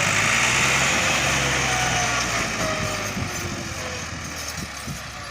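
Massey Ferguson 260 turbo tractor's diesel engine running hard with a loud hiss. It then eases off, its pitch falling and the sound fading over the last couple of seconds.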